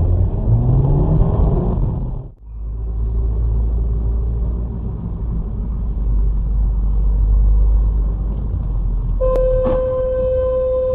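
Car engine and road rumble heard from inside a moving car, the engine rising in pitch as it speeds up, with a brief dropout about two seconds in before the steady rumble resumes. Near the end a car horn sounds in one long blast of about two seconds.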